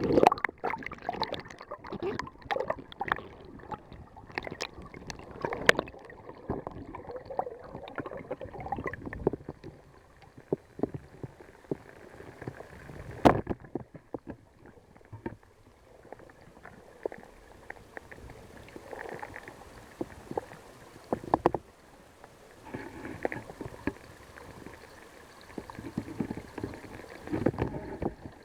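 Stream water gurgling and bubbling, heard muffled through the body of a submerged waterproof Casio FR100L camera, with irregular knocks and clicks against the camera. Two sharp knocks stand out, about 13 and 21 seconds in.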